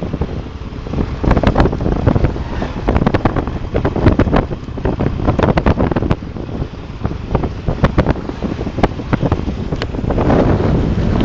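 Wind buffeting the microphone on a moving motorcycle, over a low rumble, with many irregular short knocks and pops.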